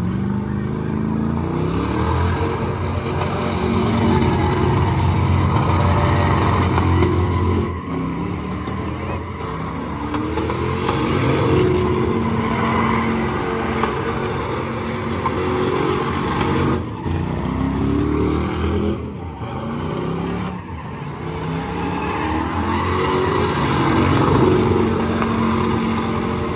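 Truck engine revving hard again and again, the pitch sweeping up each time, over a steady tire squeal from a burnout.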